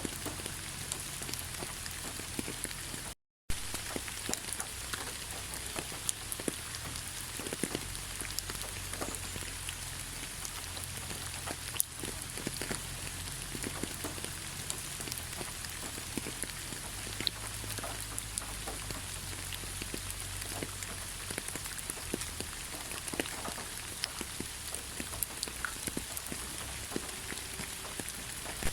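Steady rain with many individual drops ticking on a surface. The sound cuts out completely for a fraction of a second about three seconds in.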